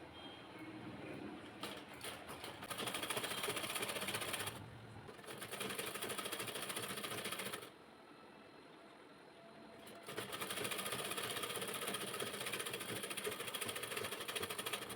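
Sewing machine stitching in runs of fast, even clatter. It pauses briefly about four and a half seconds in, and stops for about two seconds near the middle before starting again.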